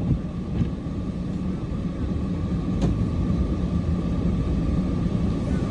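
Cummins diesel truck engine running steadily with a low rumble.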